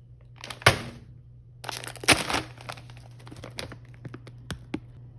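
Crinkly plastic snack bag crackling as it is handled, in bursts about half a second and about two seconds in, then a few sharp snaps.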